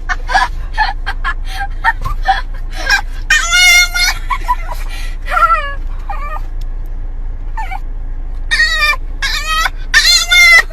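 An animal crying out about five times in high, wavering calls, with short knocks in between and a steady low hum underneath.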